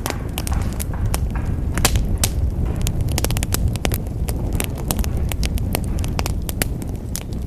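Wood fire crackling in a fireplace: frequent sharp pops and snaps, irregular, over a steady low rumble of the flames.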